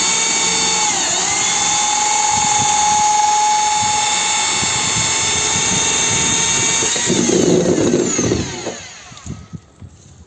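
Electric drill boring a hole in a plastic water tank: a steady high motor whine that sags briefly about a second in as the bit takes load. Near seven seconds it is released and winds down to a stop, followed by a few light clicks.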